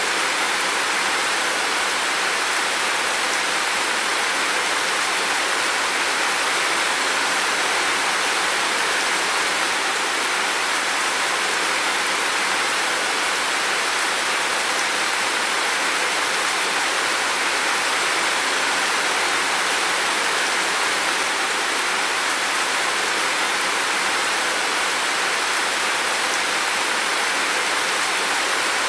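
Heavy rain falling steadily, a dense, even hiss with no distinct drops or pauses.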